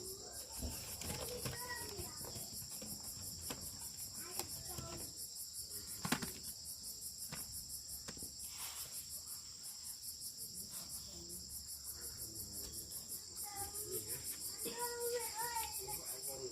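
Chorus of insects: a continuous high-pitched buzz with a fast pulsing trill above it. Faint voices and a few sharp clicks come through underneath, the voices growing near the end.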